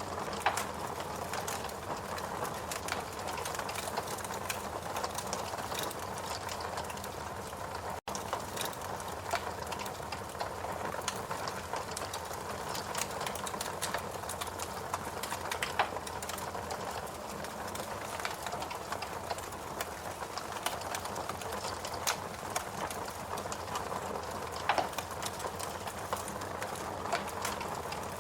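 Fireplace crackling steadily: a soft hiss dense with small clicks, and a few louder pops. There is a split-second dropout about eight seconds in.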